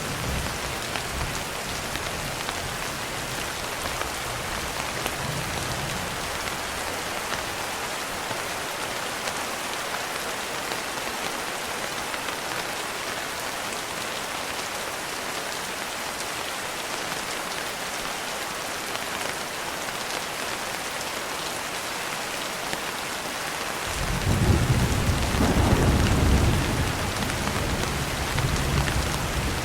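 Steady rain with rolling thunder: a low rumble fades out over the first few seconds, then a louder thunder rumble builds near the end and carries on.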